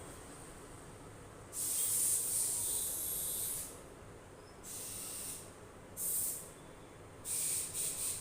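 Spray hissing in bursts: one of about two seconds starting a second and a half in, then two shorter ones, and several quick bursts in a row near the end.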